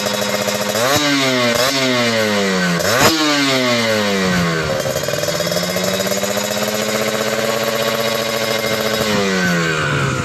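Kawasaki Ninja 150 two-stroke single revved through a Creampie aftermarket exhaust: three quick throttle blips in the first three seconds, then a slow climb to a held higher rev that drops back near the end. The exhaust gives the crisp, jingling 'garing kemrincing' note.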